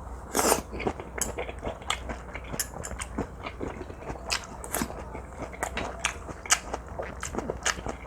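Close-miked chewing of teriyaki-marinated pork neck: a steady run of small crackly clicks and smacks, with a louder bite about half a second in.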